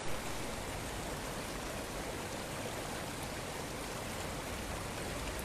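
Floodwater rushing down a road in a steady, even stream, carrying mud and debris.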